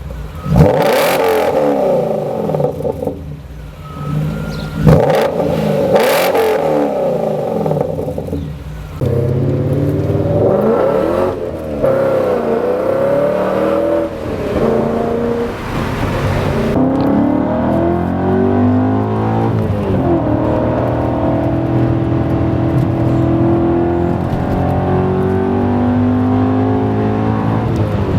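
BMW E39 M5's 4.9-litre V8 exhaust, revved in several sharp blips over the first few seconds, then a longer run of engine note rising and falling with throttle.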